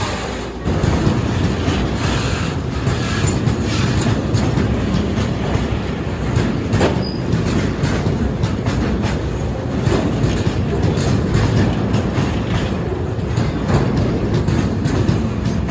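A train passing close by, its wheels rumbling and clattering over the rail joints, with some wheel squeal. It gets louder about half a second in and then stays loud and steady.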